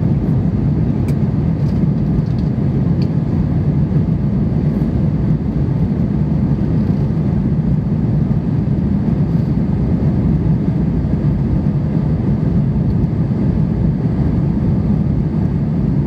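Steady low rumble of a Jetstar Japan Airbus A320's jet engines and airflow, heard from inside the passenger cabin, with a few faint small clicks in the first three seconds.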